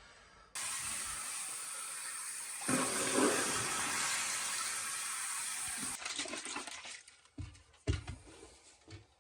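Water rushing steadily for about five seconds, starting suddenly and swelling partway through, then a few scattered knocks and clatters.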